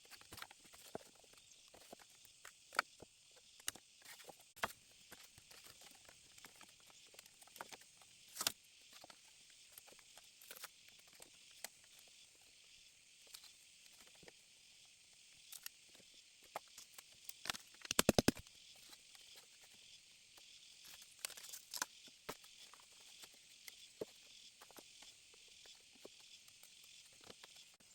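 Steady high hiss of insects in rainforest, with scattered clicks, taps and knocks from handling material. About two-thirds of the way through comes a quick run of about five knocks, the loudest sound.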